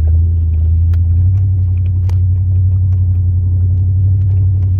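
A 2002 Chevrolet Silverado's 8.1-litre big-block V8 running steadily under way, a deep even drone, with a few light clicks and rattles.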